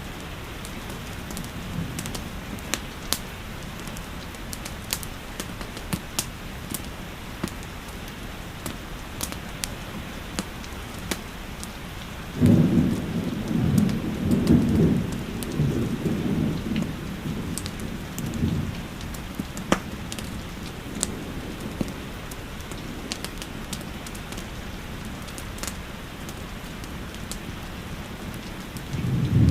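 Steady rain with scattered sharp crackles and pops from a wood fire. About twelve seconds in, a low rumble of thunder rolls for several seconds, and another begins near the end.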